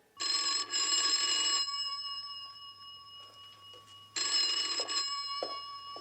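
Telephone bell ringing twice, about three seconds apart, each ring leaving a short fading tail.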